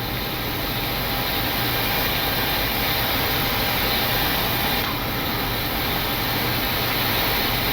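Steady rushing noise of slipstream and engines in a Boeing 737-800 flight deck on final approach, with gear down and flaps at 30.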